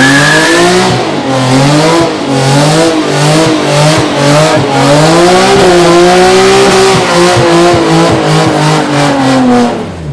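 Car engine held at high revs during a burnout, the pitch wavering and pulsing rapidly, with the hiss of spinning tyres over it; the engine drops off sharply near the end.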